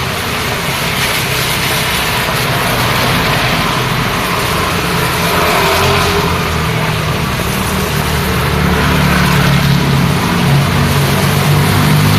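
Road traffic in the rain: steady hiss of rain and wet tyres, with engines of cars and motorbikes running underneath, growing louder in the second half as vehicles pass close by.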